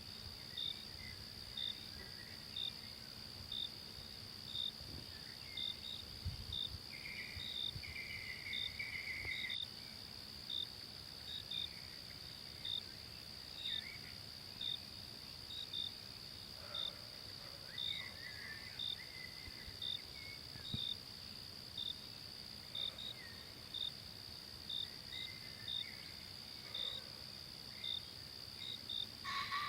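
Forest insects: a steady high trill with crickets chirping evenly about one and a half times a second, and a few brief faint bird calls.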